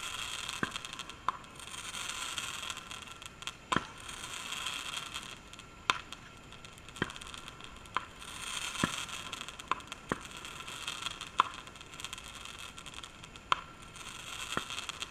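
Consumer fireworks going off: about a dozen sharp pops at irregular intervals over a hiss that swells and fades several times.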